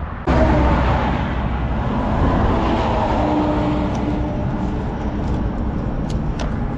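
Road traffic: motor vehicles running past on the road, a steady rush of engine and tyre noise with a faint engine drone in the middle.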